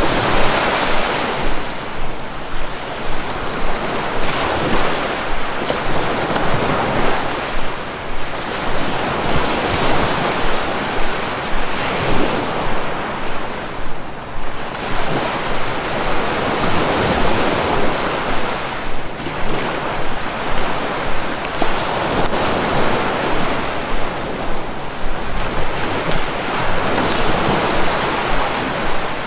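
Sea waves breaking and washing on the shore in a steady rhythm, each wave swelling and ebbing every few seconds.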